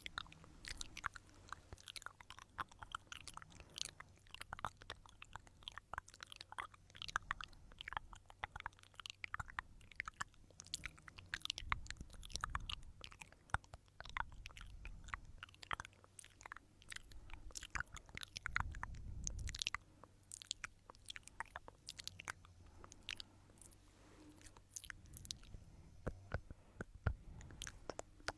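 Stones rubbed and clicked together close to the microphone: a dense, irregular run of small clicks and crunches, with a couple of soft low handling thuds.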